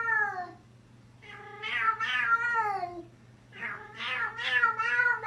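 A cat meowing in long, drawn-out calls that fall in pitch at the end, three in a row with short gaps between.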